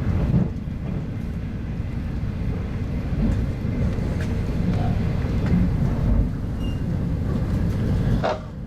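Running noise heard inside an RZ25T passenger coach: a steady low rumble of the wheels on the track. A short clatter comes near the end.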